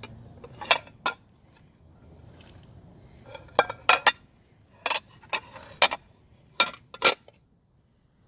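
Kitchen dishes and utensils being handled: about ten sharp clinks of metal or glass, in small groups, as bowls and spoons are set down and knocked together.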